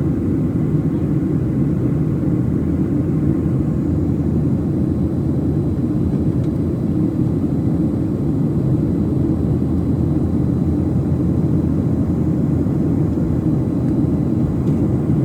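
Steady cabin noise inside a Boeing 737-700 in flight after takeoff: the CFM56-7B jet engines and the airflow over the fuselage make an even, low rumbling drone that does not change.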